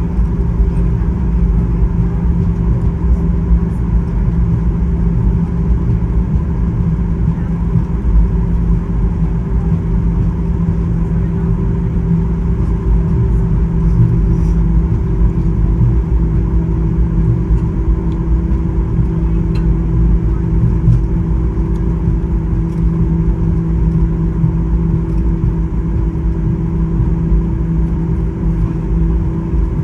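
Cabin noise inside a Boeing 737-800 taxiing after landing: a steady low rumble from the engines at idle and the air system, with a few steady humming tones over it.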